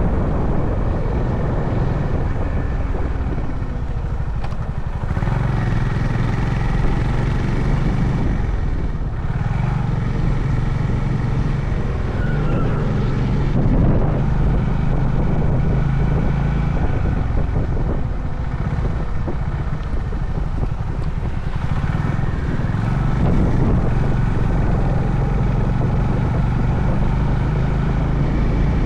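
Honda CB350 Highness's single-cylinder engine running under way, its note shifting several times as the throttle and gears change, with road and wind noise.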